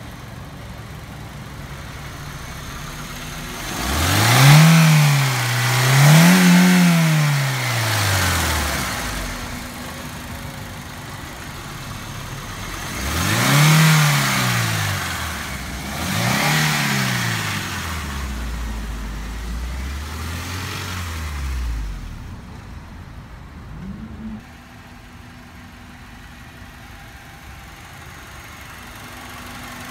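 Honda i-VTEC four-cylinder engine being revved while parked: a steady idle broken by two pairs of quick revs, the first a few seconds in and the second around the middle, then two smaller blips and a short last blip before it settles back to idle.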